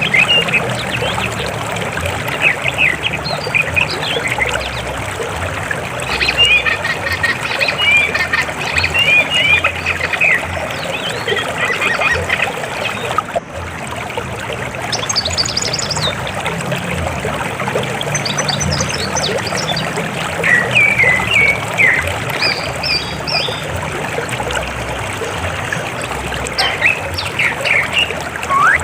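River water flowing steadily, with birds chirping and calling over it in short bursts throughout. The sound dips briefly about halfway through.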